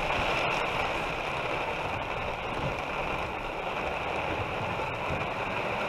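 Heavy rain drumming steadily on a car's roof and windshield, heard from inside the cabin.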